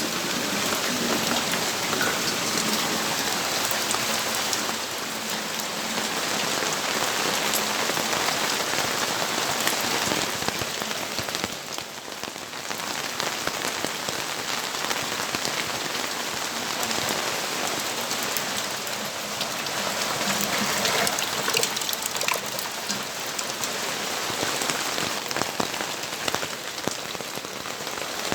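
Steady rainfall, a dense hiss of rain with many small drops pattering on surfaces, easing slightly for a moment near the middle.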